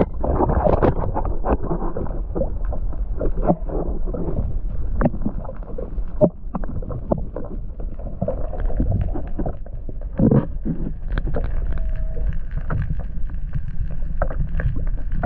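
Wind buffeting the microphone on a kayak at sea, a steady low rumble, with scattered sharp knocks and clicks throughout.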